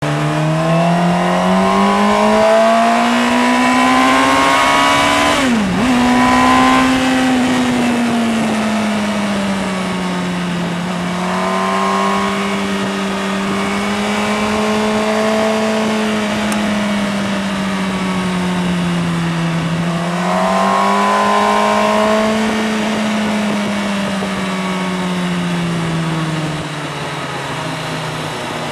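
Motorcycle engine under way, its pitch rising, then a quick drop and recovery about five and a half seconds in like a gear change, then rising and easing off in long, slow swells over a steady rushing noise.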